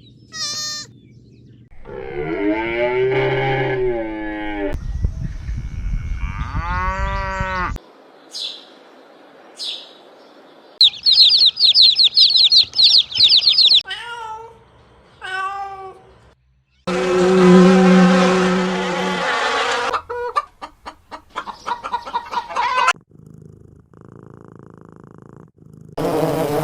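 A string of separate animal calls, one after another with short gaps, among them cows mooing and a run of quick high chirps.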